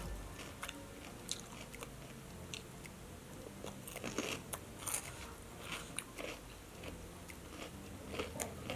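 A person chewing and biting crispy fried chicken (ayam geprek) close to the microphone, with scattered, irregular sharp crunches.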